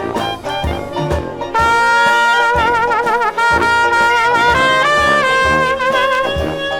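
Dixieland jazz band playing an instrumental ensemble passage, trumpet and trombone out front with wavering held notes over a steady drum beat. The band gets louder about one and a half seconds in.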